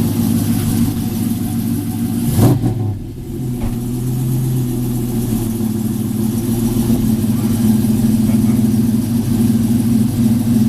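Truck engine idling steadily, with a single thump about two and a half seconds in.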